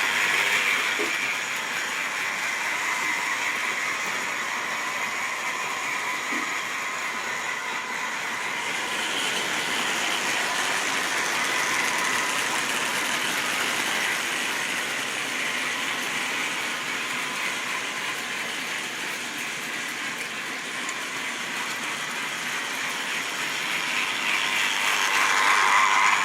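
Model railway train running on the track: the locomotive's electric motor whirring and the wheels of the rolling stock rattling over the rails. It is loudest at the start, fades somewhat, then grows louder again near the end as the train comes back close.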